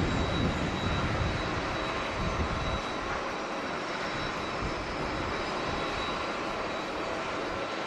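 Jet airliner engines heard at an airport: a steady jet roar with a faint high whine slowly falling in pitch. A heavier low rumble eases off about three seconds in.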